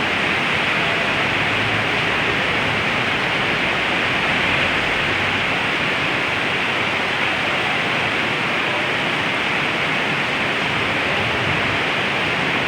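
Rain falling in a steady, loud downpour, an even hiss with no let-up.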